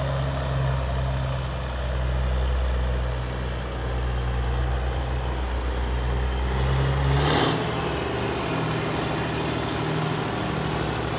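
Caterpillar diesel engine of a 1984 Peterbilt 359 semi truck idling steadily. About seven seconds in comes a brief sharp burst, after which the deep low part of the engine note drops away and a slightly higher, steady engine note carries on.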